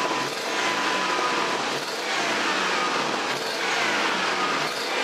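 Dodge Dakota's V8 petrol engine running steadily just after being started. It starts and runs without trouble now that the LPG conversion gear is removed and its fuel-injector wiring reconnected.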